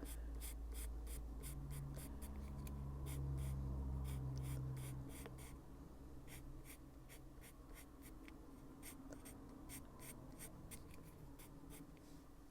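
Caran d'Ache Luminance coloured pencil scratching on paper in short quick strokes, about four a second, as it shades. A low steady hum is heard under the strokes and fades out about five seconds in.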